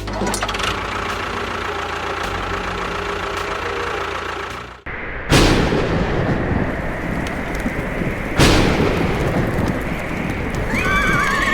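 A steady rushing noise, then after a sudden cut two loud bangs about three seconds apart, each trailing off into a rumbling noise. A warbling, wavering tone comes in near the end.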